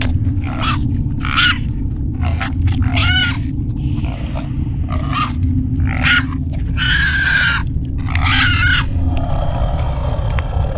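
Horror creature sound effect: a steady low rumble under a run of short, high, pitched cries and squeals, about one a second, which stop near the end.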